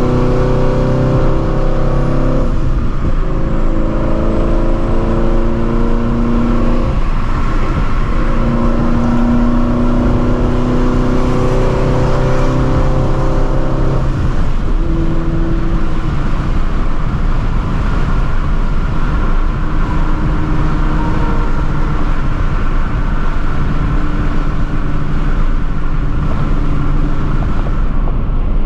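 Supercharged Shelby GT350's 5.2-litre flat-plane-crank V8 running at highway speed with steady road noise. Its note changes a few times in the first half and holds steadier after about 14 seconds.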